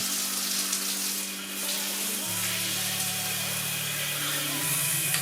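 Waterpik dual shower head spraying water steadily, a continuous hiss of water jets.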